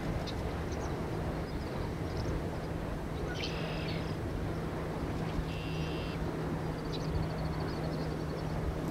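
Steady outdoor noise with a low, even hum underneath, and a few short high bird chirps in the middle followed by a quick run of chirps toward the end.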